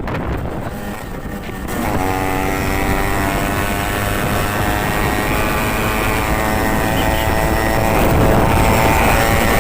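Motorcycle engine running at steady revs on the move, its level creeping up toward the end.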